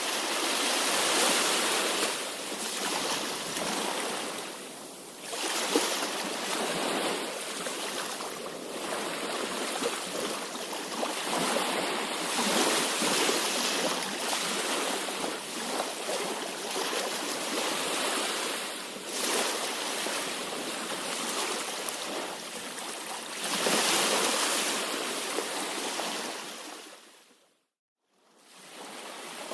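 Sea waves washing on a shore: a steady rush of surf that swells every few seconds. The sound cuts out completely for about a second near the end.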